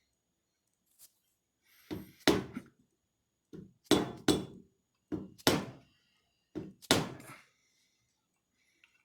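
Hammer blows on a metal workpiece, struck in quick pairs and threes about every one and a half seconds, each a dull knock with a short ring.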